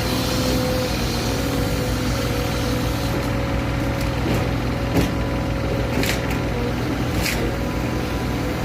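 An engine running steadily at idle, with a few short sharp clicks about halfway through and near the end.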